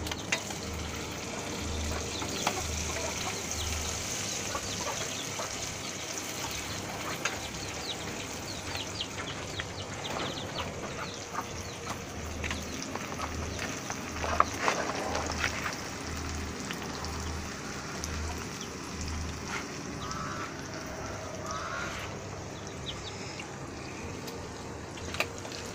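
Pepper sauce frying and sizzling in a pan over a wood fire, with small crackles and the occasional scrape of a wooden spoon stirring it. A few short calls stand out in the background, one about midway and a wavering pair later on.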